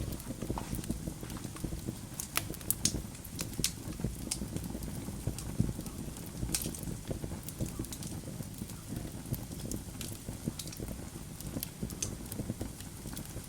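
Wood logs burning in a fireplace, crackling with irregular sharp pops and snaps over a low, steady rumble of the flames.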